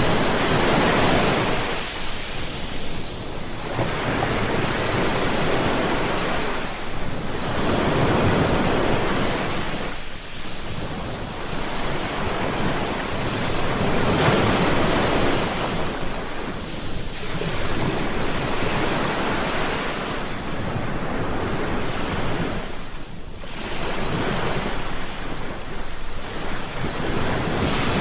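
Ocean waves breaking and washing ashore in repeated surges, swelling and easing every few seconds.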